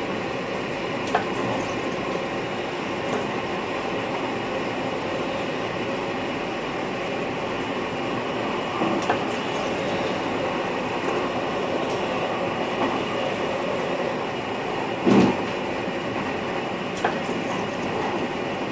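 Running noise heard inside the driver's cab of an NS VIRM double-deck electric train: a steady rumble with a few sharp clicks and one louder knock about fifteen seconds in.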